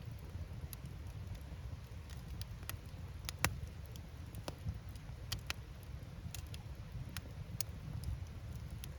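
Firewood burning in an open campfire: irregular sharp crackles and pops, one louder pop about three and a half seconds in, over a steady low rumble.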